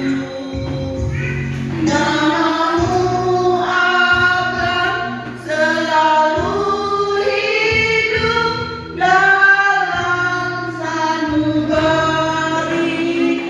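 A woman singing karaoke into a microphone over a backing track with a bass line.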